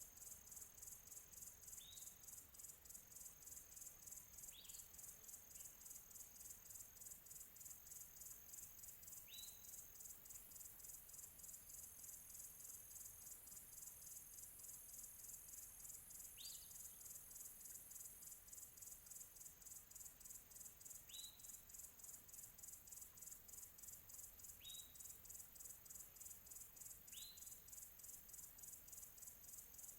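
Faint, steady high insect trilling that pulses rapidly, like a cricket chorus. About eight short, rising bird chirps sound a few seconds apart over it.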